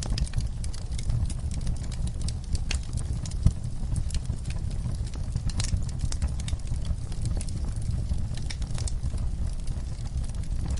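Fire burning in a fireplace: a steady low rumble of the flames with frequent irregular crackles and pops, one sharper pop about three and a half seconds in.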